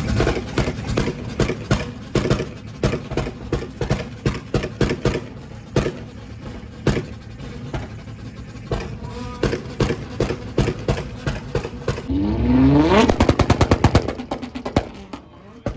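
Car engine held on a two-step launch limiter, the exhaust popping and banging in quick irregular cracks. About twelve seconds in, the engine revs up with a rising pitch and the pops come fast and loud for a couple of seconds.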